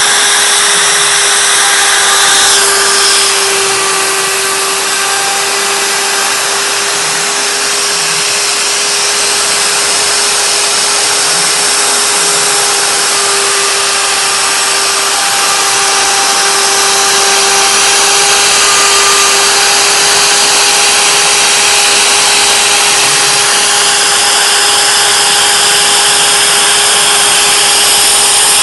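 A 3D CNC wood-carving router's spindle runs at a steady high speed while its cutter carves into wood. The cut makes a loud, even hiss over a constant high whine from the spindle.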